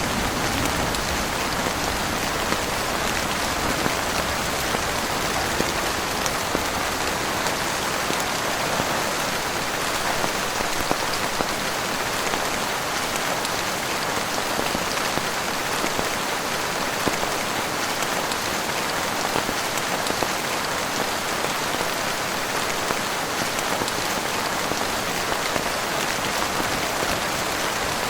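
Heavy rain falling steadily, a dense even hiss with many small sharp drop hits scattered through it.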